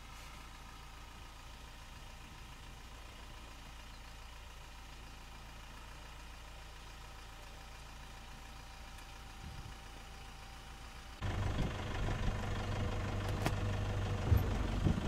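Vehicle engine idling quietly and steadily, then suddenly much louder and fuller from about eleven seconds in.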